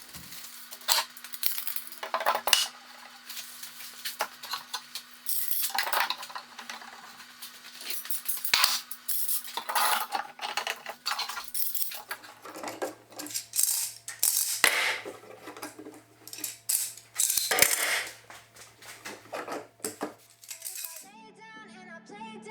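Irregular workshop clatter: sharp clicks, knocks and metallic clinks of tools and parts being handled, over faint steady low background music. A song comes in near the end.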